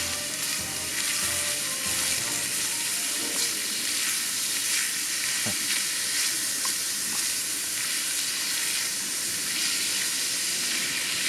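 Ground meat frying in a small pan, a steady loud sizzle.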